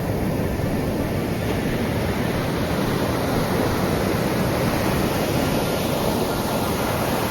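Sea waves surging and breaking on the shore: a steady, unbroken rush of surf.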